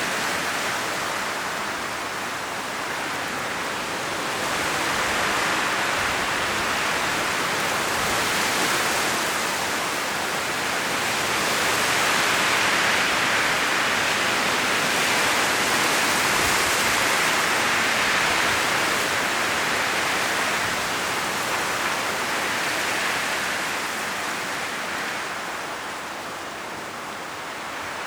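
Strong wind blowing through forest trees, the rustle of leaves swelling and easing in long gusts.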